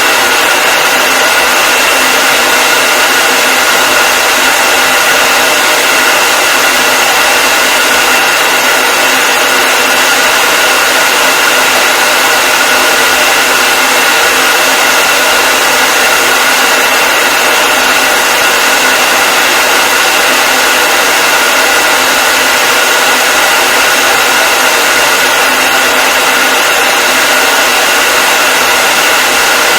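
Hair dryer running continuously: a loud, steady rush of air with a constant high-pitched whine from its motor.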